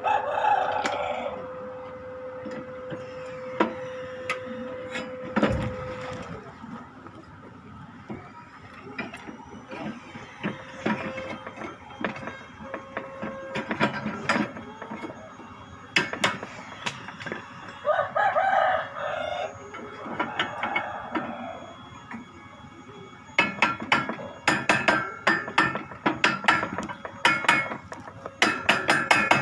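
Hammer strikes, scattered at first and then a fast, regular run of blows near the end. A rooster crows in the background, once at the start and again about two-thirds of the way in. A steady hum runs for the first six seconds and stops.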